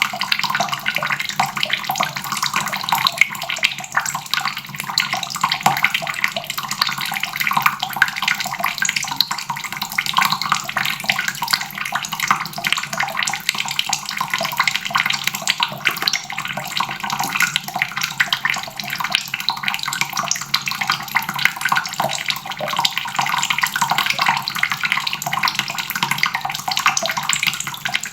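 Water faucet running steadily, the stream splashing into a basin with a dense, even patter.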